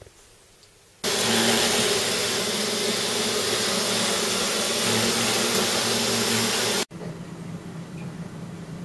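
Vacuum cleaner running: a loud, steady whirring hum that starts suddenly about a second in and cuts off sharply near seven seconds, followed by a quieter steady hum.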